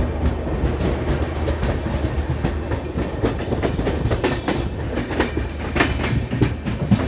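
Moving train: steady low rumble of the running gear with wheels clattering over rail joints, the clicks coming thicker in the second half.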